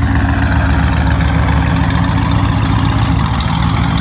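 Car engine running at a steady idle, loud and even.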